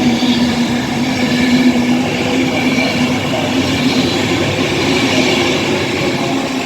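Class 390 Pendolino electric train running through the station: a steady electric hum with rail and wheel noise, the hum fading about two and a half seconds in.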